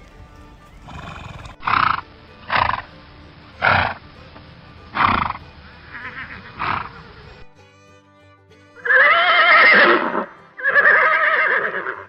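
Horse: a string of about six short, noisy breathy blows, then two long neighs, each over a second, loud and quavering in pitch. Background music plays underneath.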